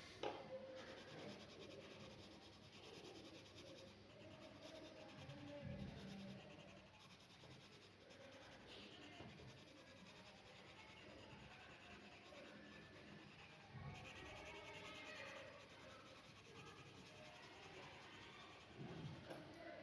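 Faint scratching of drawing strokes on paper, with a sharp tick at the start and a few soft knocks.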